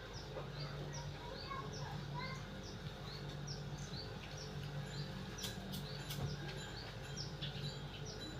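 A small bird chirping over and over, short high falling calls about two or three a second, over a steady low hum, with a few sharp clicks a little past the middle.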